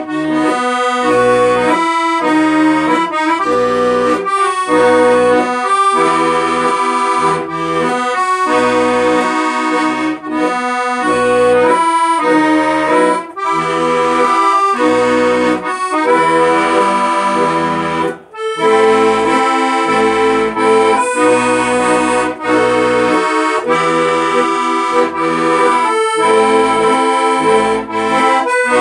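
Accordion music: a melody over a steady, rhythmic bass-and-chord accompaniment, with a brief break about two-thirds of the way through.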